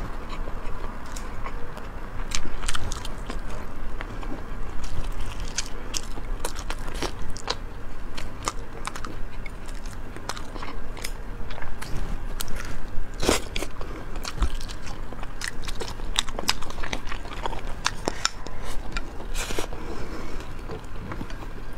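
Close-miked biting and chewing of sweet-and-sour pork ribs, with many irregular sharp mouth clicks and crackles.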